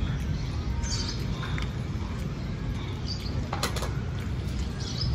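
A few brief high bird chirps, about a second in, about three seconds in and near the end, over a steady low outdoor rumble, with one short click between them.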